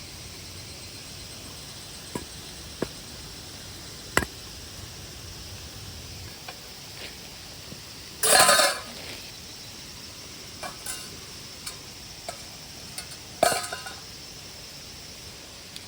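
Metal cookware being handled: sharp clinks and taps, with two louder scraping clatters, one about halfway through and one near the end, over a steady background hiss.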